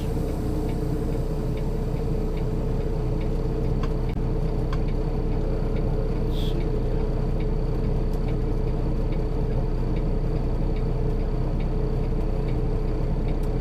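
Semi-truck diesel engine running steadily at low speed, with a few faint ticks and a short hiss about six and a half seconds in.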